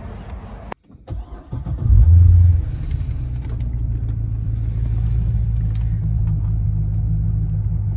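The 7.0-litre V8 of a 2010 Chevrolet Corvette Z06 starting up. After a short crank it catches with a loud flare of revs about two seconds in, then settles into a steady idle.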